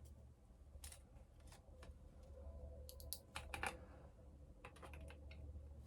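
Scattered light clicks and taps of small parts and tools being handled, in clusters about a second in, around three seconds in and near the end, over a faint steady low hum.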